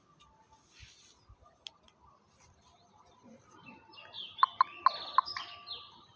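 A bird calling: faint scattered chirps, then a quick run of four sharp, loud notes about two-thirds of the way in.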